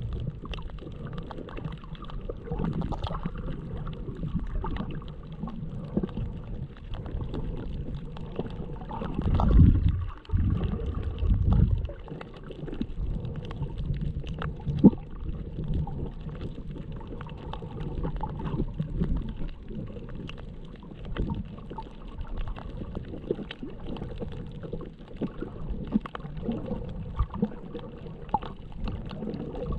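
Underwater sound picked up by a GoPro Hero7's own microphone without a waterproof case: a muffled low rumble of moving water with scattered clicks and crackles. The water surges louder twice, about ten and twelve seconds in, and there is one sharp click just before fifteen seconds.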